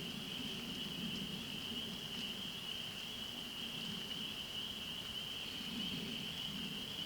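A dense outdoor chorus of calling animals blended into one steady high-pitched trill, with a fainter low, uneven hum beneath it.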